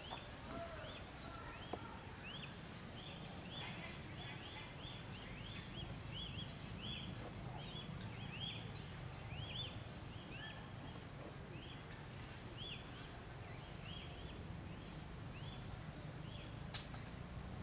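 Small birds chirping: short, high, arched chirps repeated about twice a second and often overlapping, over a faint steady low rumble.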